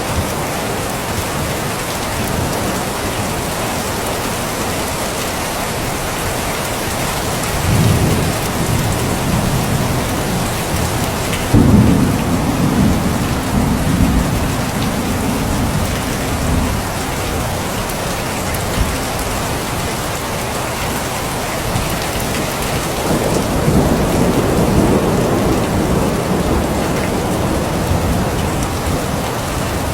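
Steady rain falling, with thunder: a low rumble about a quarter of the way in, a sharper crack near the middle that rolls on for about five seconds, and another rumble later on.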